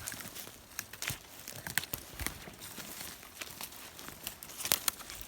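Rustling and crackling of dry forest litter, with irregular sharp snaps of small twigs, as someone moves through the undergrowth on foot.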